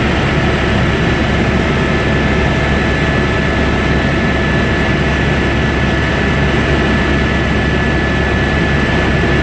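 Helicopter engine and rotor noise, loud and steady, with a thin high whine running through it.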